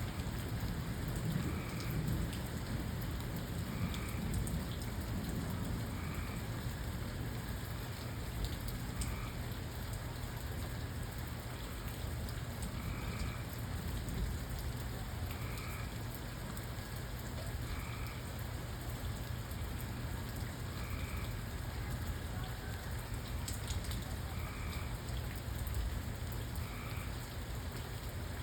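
Steady rain falling, an even hiss with a low rumble under it. A faint short call repeats about every two to three seconds through it.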